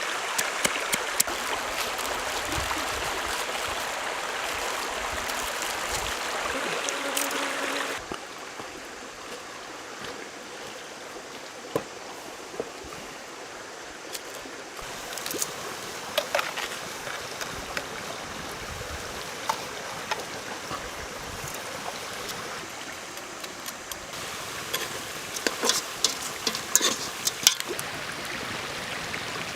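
Steady rush of running water, like a stream, with scattered sharp clicks and snaps, most of them near the end. The rush drops suddenly in level about eight seconds in.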